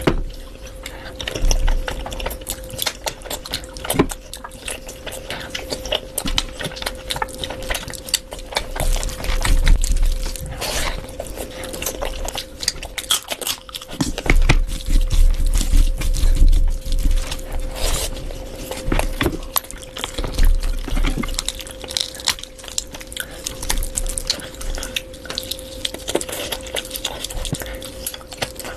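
Close-miked eating sounds: wet chewing, smacking and squelching of curry and rice, made up of many irregular small clicks, over a steady faint hum.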